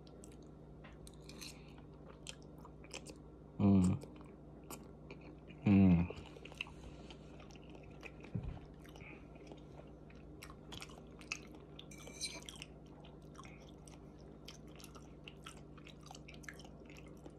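A person chewing mouthfuls of thick udon noodles close to the microphone, with many small wet clicks from the mouth and from a metal fork in a ceramic bowl. Twice, about 4 and 6 seconds in, a short hummed vocal sound breaks in.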